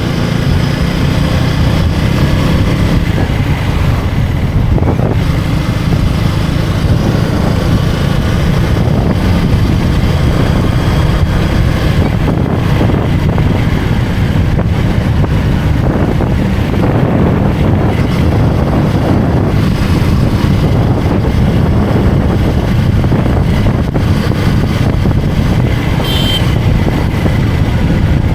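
Motorcycle engine running under way, with wind noise on the microphone. The engine pitch shifts a little in the first few seconds, and a short high tone sounds near the end.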